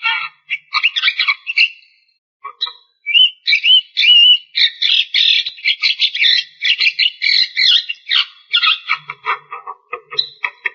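Javan myna singing: a rapid run of harsh chattering notes and a few whistled gliding phrases, broken by a short pause about two seconds in.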